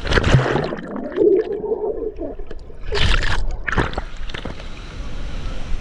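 Water gurgling and sloshing, muffled, with two sudden splashy bursts about three seconds in and again just before four.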